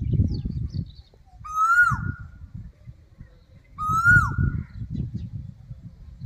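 A bird calling three times, about two seconds apart: each call is a loud, short, held note that drops sharply at the end, over a low rumble.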